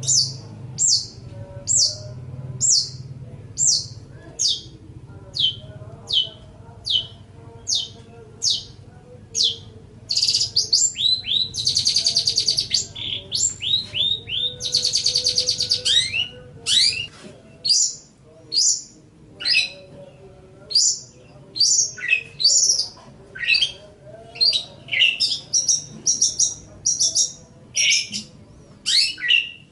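Long-tailed shrike (cendet) singing: a steady run of short, high, down-slurred whistled notes at a little over one a second, then two harsh rapid buzzing trills about ten seconds in, then a quicker jumble of varied notes.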